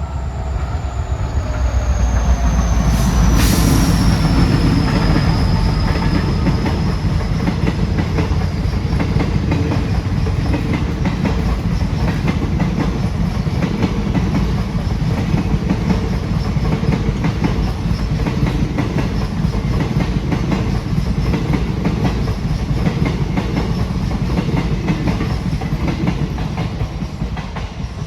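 A train running past with a steady, heavy rumble and clatter of wheels on the rails. A thin high squeal falls slowly in pitch over the first several seconds, and the sound fades near the end.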